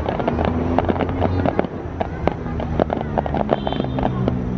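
Fireworks display: shells bursting in quick, irregular crackles and pops, many to the second, with steady held music tones underneath.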